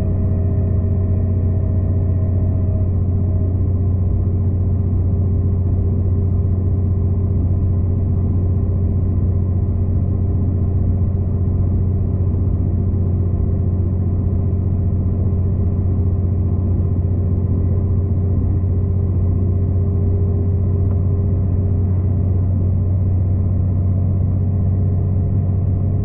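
V/Line passenger train running at a steady speed: a loud, even low drone with a few steady whining tones above it. One higher whine fades out a few seconds in.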